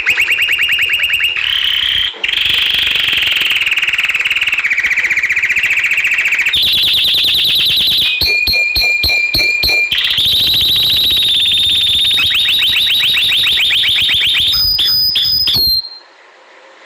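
Canary singing a long song of rapid trills, switching every few seconds to a new trill or a held whistled note, and cutting off suddenly near the end.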